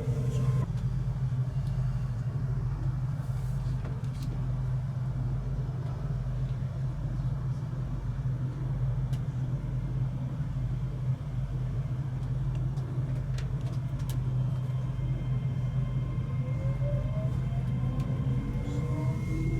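Inside a moving passenger train: the steady low rumble of the train running along the track. In the last few seconds a rising whine joins it.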